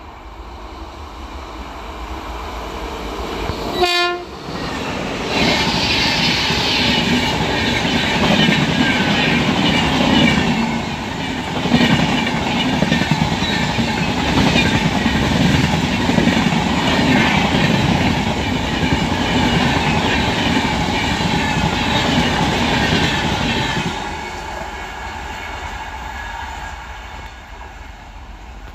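Passenger express train passing at speed. The rumble builds as the locomotive approaches, and a short horn blast sounds about four seconds in as it reaches the camera. A long, loud rhythmic clatter of wheels on rail follows as the coaches go by, then fades after the last coach passes.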